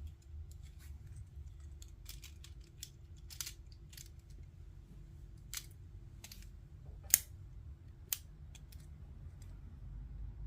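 Plastic Lego bricks being handled and pressed together: scattered light clicks and snaps, the sharpest about seven seconds in.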